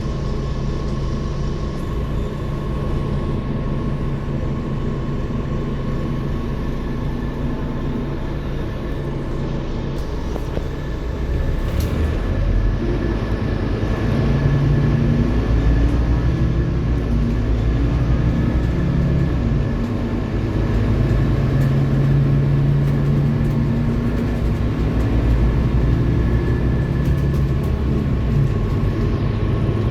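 Diesel engine of a Scania K230UB city bus running under way, with a steady high whine throughout. About twelve seconds in it pulls away louder, the engine note rising in several steps as the bus gathers speed, then it runs on at a steady pace.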